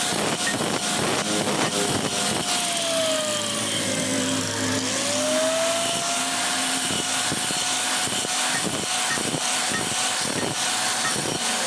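A motor-driven machine running with a rough, gritty grinding noise and irregular scraping clicks. Its running tone sags in pitch over a couple of seconds and then springs back up about five seconds in, as if briefly loaded.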